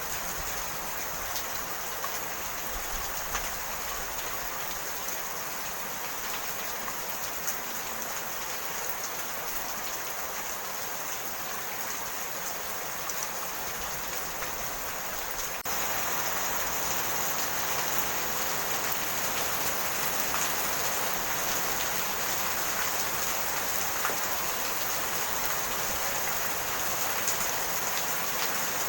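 Steady rain falling, an even hiss dotted with small drop ticks; about halfway through it abruptly becomes louder.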